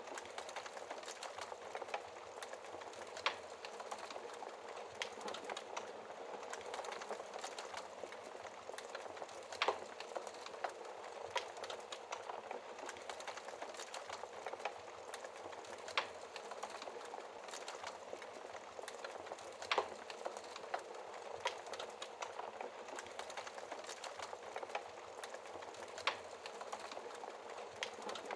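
Wood fire burning in a fireplace, crackling steadily with a fine hiss of small crackles and a sharp, louder pop every few seconds.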